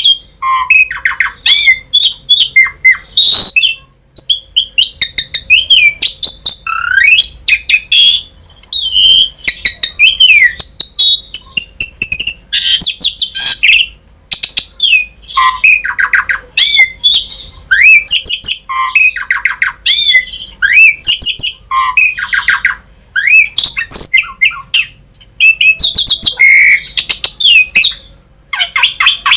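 Asian pied myna (jalak suren) singing a long, varied song: whistled glides that rise and fall, rapid chattering runs and harsh squawks, in phrases broken by short pauses.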